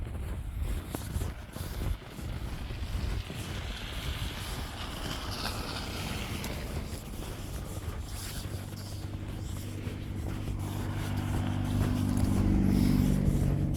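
A motor vehicle's engine approaches, its low hum growing louder over the last few seconds and loudest near the end. A steady low rumble lies under it.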